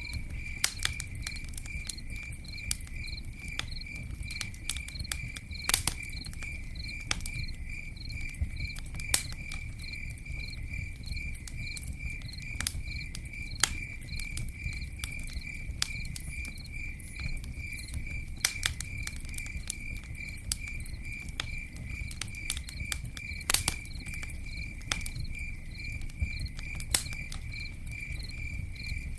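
Campfire crackling, with scattered sharp pops as the loudest sounds and a low steady rush underneath, while a cricket chirps steadily at about three chirps a second.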